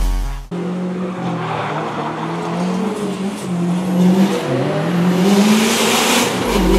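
Sports car engine running hard under acceleration, its pitch wavering, dipping briefly near the middle and then climbing again, with a hiss building toward the end.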